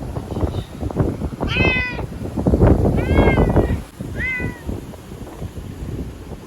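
A frightened feral cat yowling three times in long, arching meows, over steady scuffling and knocking noises as it struggles.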